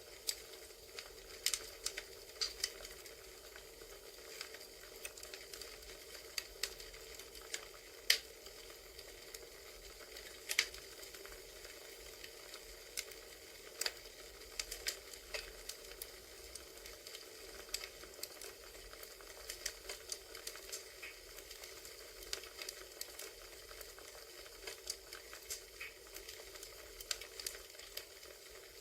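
Crackling wood fire: a steady soft hiss with irregular sharp pops and snaps, some much louder than others.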